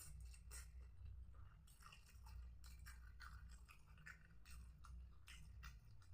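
Quiet, close-up chewing of fried tempeh with sambal: a run of irregular small wet clicks and crunches from the mouth, over a steady low hum.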